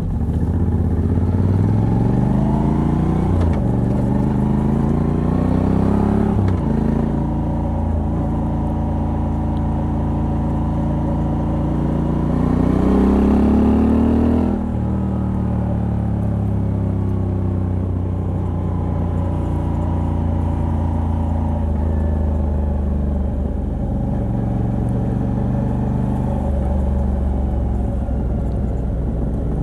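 Moto Guzzi V85TT's air-cooled transverse V-twin, on its stock exhaust with a Mistral decat pipe, heard from the rider's seat while under way. The revs climb and drop back sharply twice in the first seven seconds, hold steady, climb again, then fall off abruptly about halfway through before settling into a steady cruise.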